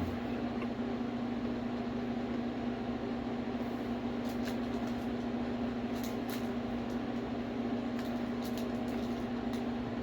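A steady low hum with room noise runs throughout. From about four seconds in come intermittent short crisp crackles, the sound of someone chewing a crunchy chocolate-covered mini Mamut cookie.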